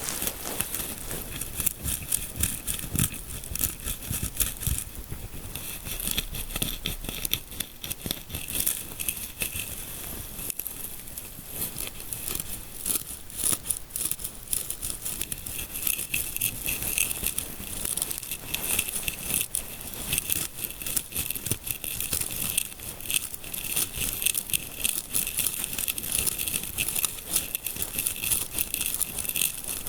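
ASMR scalp-massage sounds: fingers rubbing and scratching close to the microphone in a dense, crinkly run of rapid strokes that goes on without a break.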